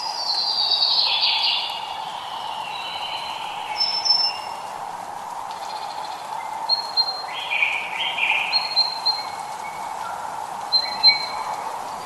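Several birds calling and singing, with short high whistles and quick sweeping phrases scattered through, over a steady hiss of light rain.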